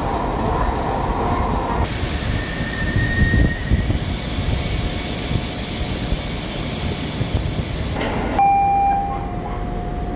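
Keisei 3500 series electric commuter train running with a steady rumble. The sound changes abruptly about 2 s and 8 s in, and a brief high whine comes around 3 s.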